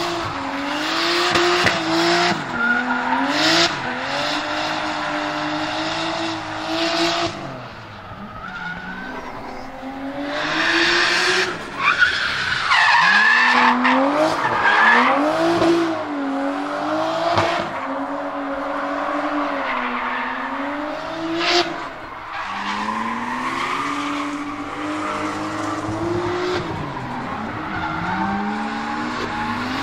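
Nissan Skyline R33 GTS-T drift car with a turbocharged RB25DET straight-six and external wastegate, revving up and down again and again while drifting, with tyres squealing. The squeal is loudest about halfway through.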